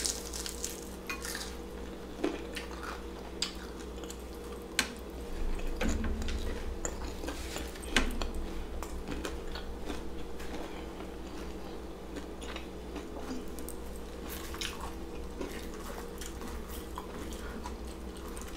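Close-up eating sounds: biting and chewing a piece of beer-battered, deep-fried smoked sausage, with scattered small crunches and clicks. The sharpest click comes about 8 seconds in.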